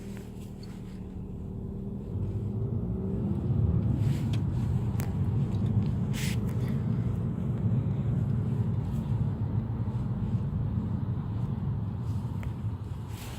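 Car engine and road rumble, building about two seconds in and easing off near the end, with a few faint clicks.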